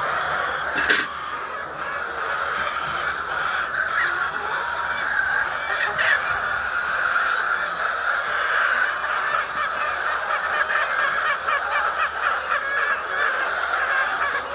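A flock of laying hens clucking and calling over one another without a break, with a sharp knock about a second in and another about six seconds in.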